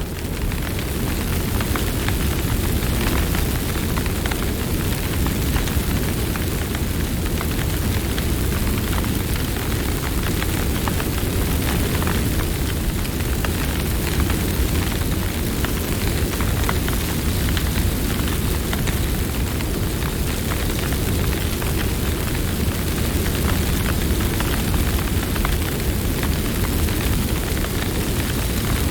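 Campfire burning: a steady low rumble of flames with many small crackles and pops from the burning wood.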